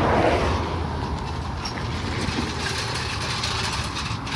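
A vehicle engine idling steadily, with a brief swell of noise right at the start.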